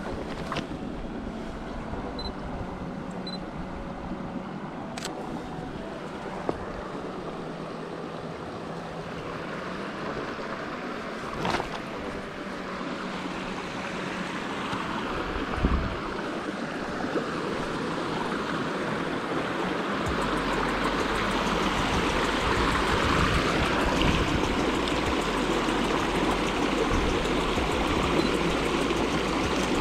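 Small river rushing steadily, growing louder from about halfway through, with a few sharp clicks.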